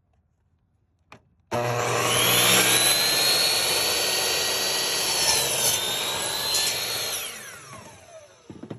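Metabo 10-inch miter saw's motor started with a click, its whine rising quickly as the blade spins up, running loud and steady with a brief dip in pitch midway, then released and winding down with a falling whine. A knock near the end.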